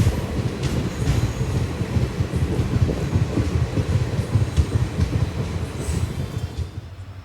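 Passenger train running on the line: a dense low rumble with scattered wheel clicks over rail joints and a brief high wheel squeal. It dies away near the end.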